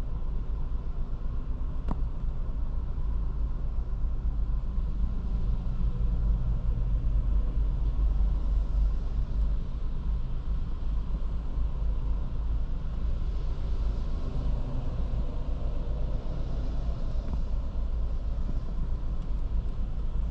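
Cabin sound of a 2023 Škoda Kamiq driving in town: steady low road rumble, with the 1.0 TSI three-cylinder turbo petrol engine's note swelling and easing as it pulls. There is a single click about two seconds in.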